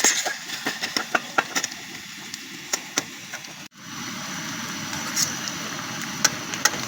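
Food frying in a pot over a wood fire: a steady hiss with sharp crackles and pops scattered through it. The sound cuts off abruptly about halfway, then the hiss resumes more evenly.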